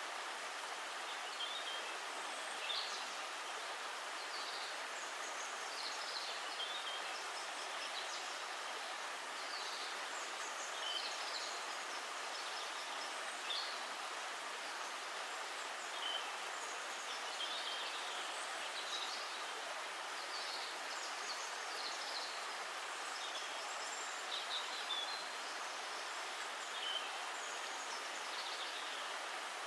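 Steady rush of running water, with birds chirping in short high calls every second or two throughout.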